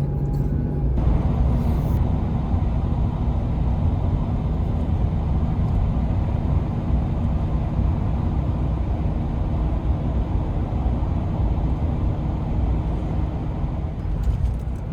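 Toyota Land Cruiser 60 on the road: a steady low engine and road rumble with tyre noise, which swells about a second in and then holds even.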